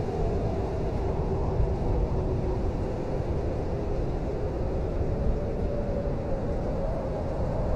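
Blizzard wind blowing steadily: a deep rumble with a faint, wavering howl.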